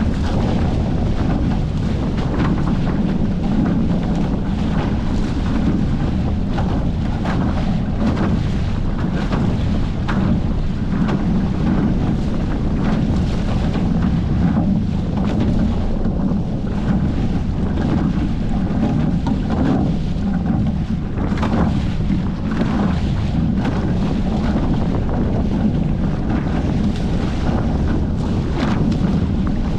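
Steady, loud wind buffeting the microphone on a Hobie 14 catamaran under sail, with water rushing and splashing along the hulls.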